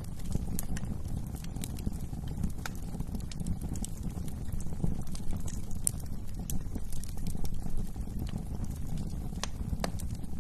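Wood fire crackling in a fireplace: scattered sharp pops and snaps over a low, steady rumble.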